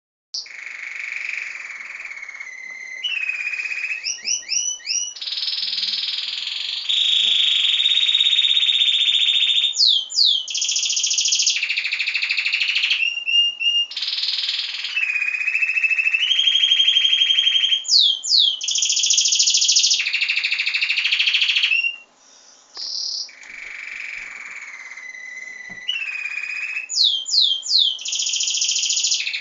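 A pet songbird singing a long, continuous song of high rolling trills and held notes, changing phrase every second or two, with quick sweeping notes between phrases. There is a brief pause about 22 seconds in.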